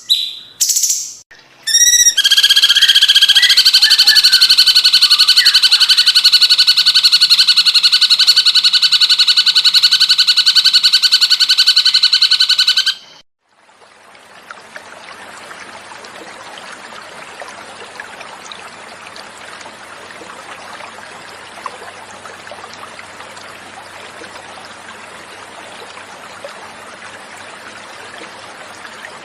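Cucak cungkok bird calls: a few short notes, then a long, loud, rapid trill held for about eleven seconds that stops abruptly. After a brief gap, steady flowing water runs for the rest.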